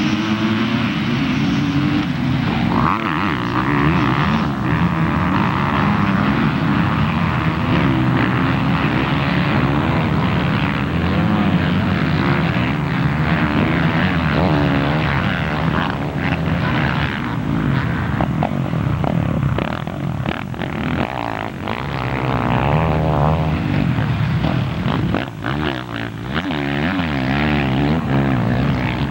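Several motocross bike engines running on track, their pitch rising and falling as riders open and close the throttle, with no break in the noise.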